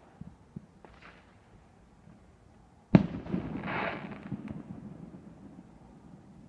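A firework going off: one sharp bang about three seconds in, followed by about a second of crackling hiss and a fading rumble.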